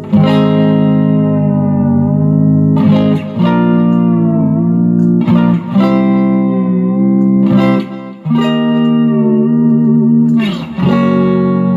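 M-Musi Virgo Fusion electric guitar played through an amp: chords struck about every two and a half seconds and left to ring, their pitch wavering as they sustain.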